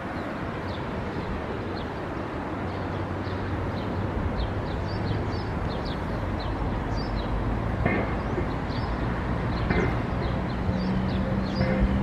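A low, steady engine drone that grows louder, over a bed of outdoor noise, with many short, high, falling chirps from small birds throughout and a few brief knocks, about eight, ten and twelve seconds in.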